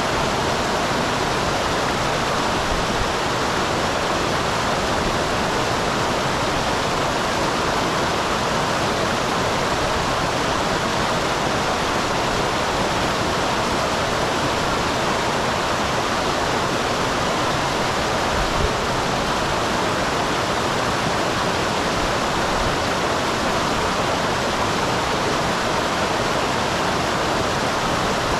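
Small waterfall on a mountain stream, water splashing and rushing steadily.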